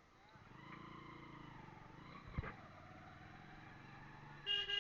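Motor vehicle engine running faintly, its pitch wavering up and down. Near the end a vehicle horn sounds loudly.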